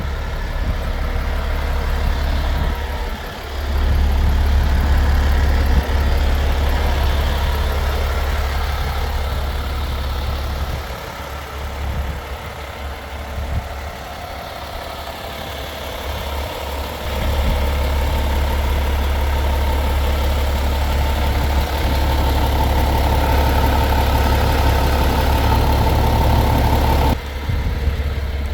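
MAN 26.510 TGX truck's 12.4-litre straight-six diesel engine idling with a steady low rumble, its loudness falling for a few seconds in the middle and changing abruptly near the end.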